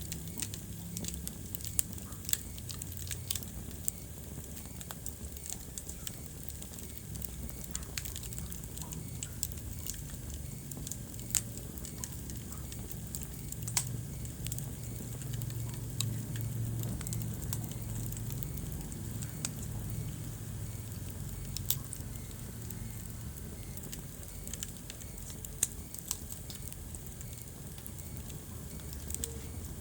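Wood fire burning in a fireplace, crackling with irregular sharp pops over a low, steady rumble of the flames.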